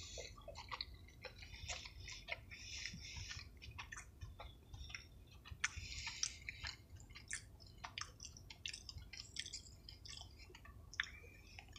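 Chewing a crispy battered spicy chicken nugget close to the microphone: irregular crunches and wet mouth clicks.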